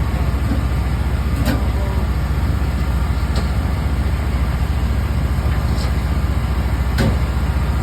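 Steady low mechanical drone of a food truck's running equipment, with a few light clicks or knocks.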